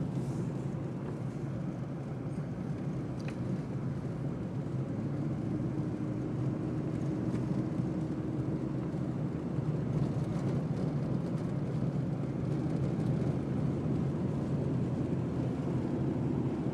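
Steady low rumble of a car driving at highway speed, tyre and engine noise with no change in pace.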